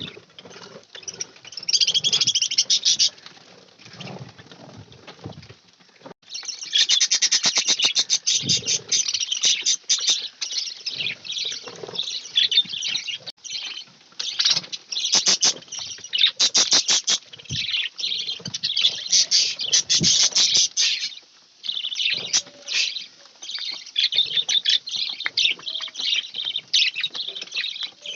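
A flock of budgerigars chirping and chattering, quieter at first and then loud and continuous from about six seconds in. This is the excited clamour budgies make when egg-and-rice food is put in front of them.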